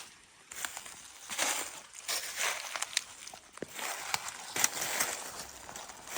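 Footsteps crunching over the forest floor, about two steps a second, with a few sharp cracks among them.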